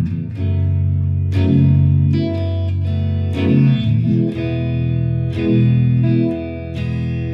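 Electric guitar, a Fender Stratocaster played through a Fender Mustang GTX100 modelling amp, sounding ringing chords with a new chord picked about once a second.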